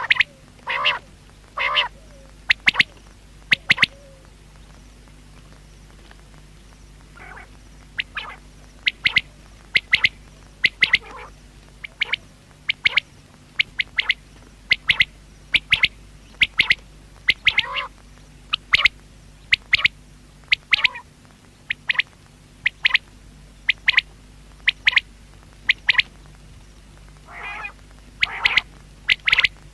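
Common quail calling: short, sharp notes repeated every half second to a second, with a pause of a few seconds near the start before the calling resumes. A faint steady hum runs underneath.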